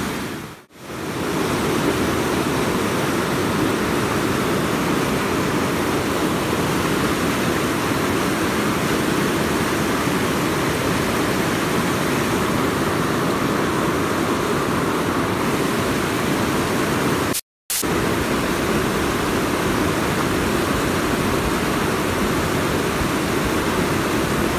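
Fast-flowing river water rushing, a steady noise heaviest in the low range. It dips briefly about a second in and cuts out suddenly for a fraction of a second later on.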